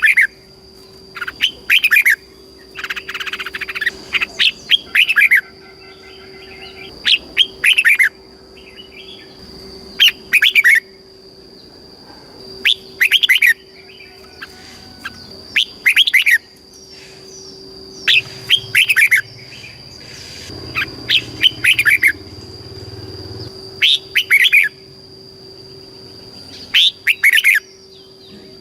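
Red-whiskered bulbul singing: short, loud phrases of quick falling whistled notes, repeated every two to three seconds. A faint steady high tone and low hum run underneath.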